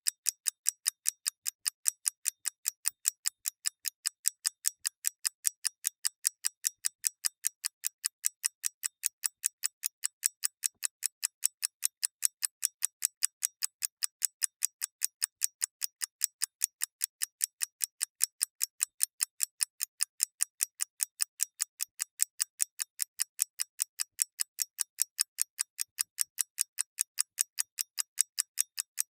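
Mechanical clock ticking steadily: sharp, bright, evenly spaced ticks, about two to three a second.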